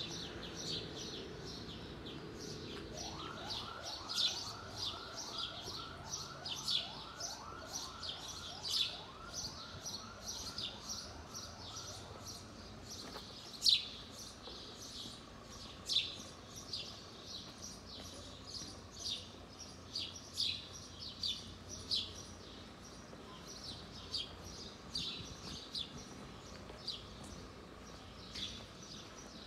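Birds chirping, with many short, sharp falling chirps throughout, a few of them louder. From about three to twelve seconds in, a fast-repeating rising tone runs alongside, about three notes a second.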